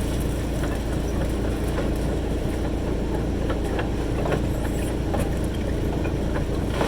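Wood chipper's engine running steadily at an even level, with no wood going through, and a few faint clicks.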